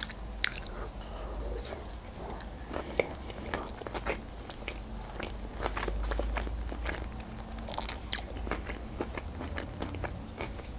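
Close-miked mouth sounds of a person chewing a mouthful of sushi roll: irregular wet smacks and small crunches, with sharper clicks about half a second in and again near the end.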